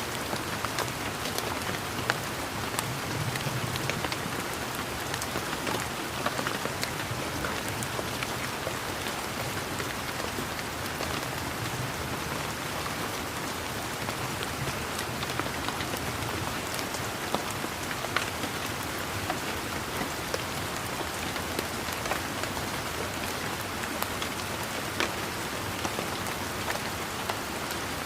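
Steady rain falling on leaves and surfaces, a continuous hiss with many individual raindrops pattering and ticking throughout.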